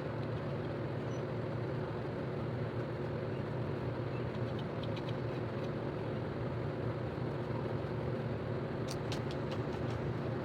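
A steady low mechanical hum, with a few light clicks about halfway through and a short run of sharp clicks near the end.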